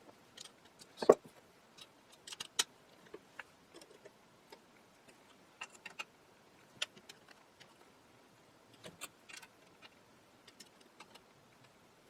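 Small metallic clicks and ticks of a hand tool tightening the terminal screws and nuts on an antique radio's wiring. The clicks are scattered and irregular, with the loudest about a second in.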